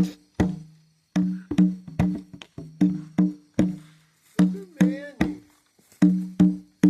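Percussion played by hand in a steady rhythm, about two to three sharp hits a second, each with a short low ringing tone. A brief swooping, voice-like sound rises and falls about five seconds in.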